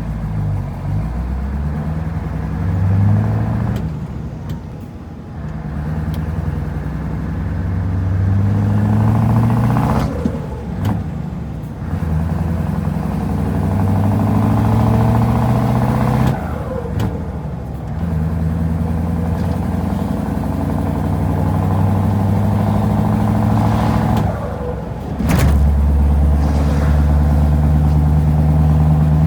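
Scania 144L 530 V8 truck engine pulling hard, its note climbing in pitch again and again with short breaks between the climbs, as in upshifts through the gears. After the last break it runs on with a steady, heavy low note.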